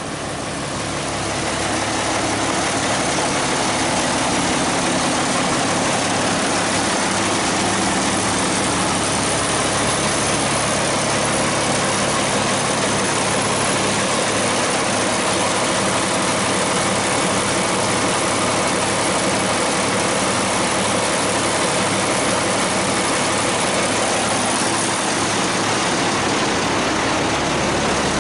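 Vehicle engine idling steadily, swelling over the first couple of seconds and then holding level.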